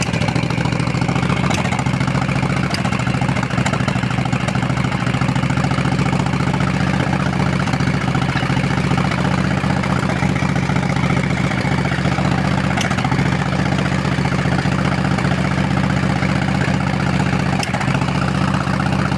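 Motorcycle engine idling steadily, with a few brief sharp pops now and then. These are the intermittent misfires, the 'sneezing' heard from the engine and the exhaust, which the owner cannot diagnose on this bike with electronic ignition.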